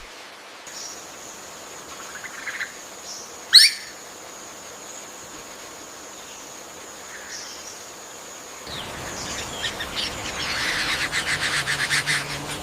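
Bird calls in rainforest ambience: a single sharp rising whistle about three and a half seconds in, and a fast rattling chatter near the end. A steady thin high tone runs under the first two-thirds.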